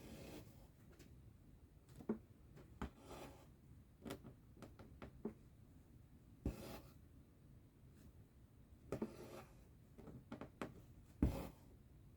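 Cross-stitching: thread drawn through the fabric in faint rasping pulls every few seconds, with small clicks and taps in between.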